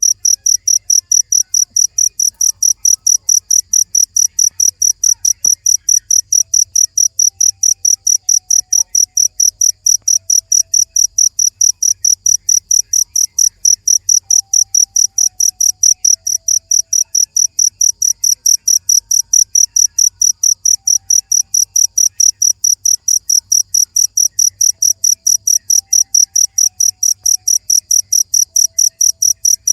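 Cricket chirping steadily: a loud, high-pitched chirp repeated evenly about four times a second.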